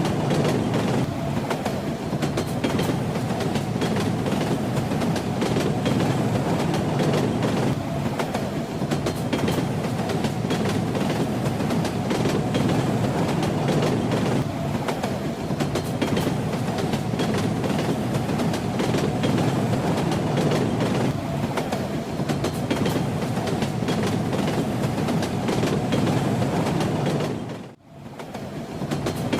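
Continuous rumble of a moving train with the clatter of its wheels on the rail joints. Near the end the sound briefly fades out and comes back.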